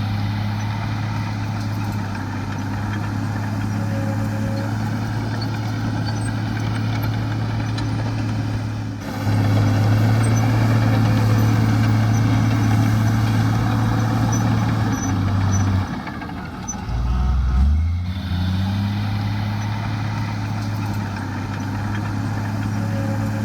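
Heavy diesel engine of earthmoving equipment running steadily under load. It changes abruptly about nine seconds in, then drops and picks up again, rising in pitch, a little after two-thirds of the way through.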